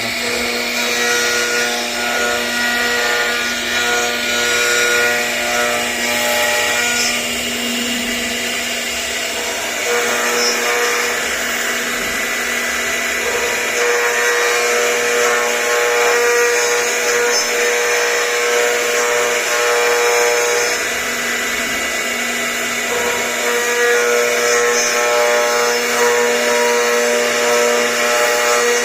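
CNC router carving wood: the spindle runs with a steady hum while the bit cuts. A higher whine drops out and comes back several times as the machine moves.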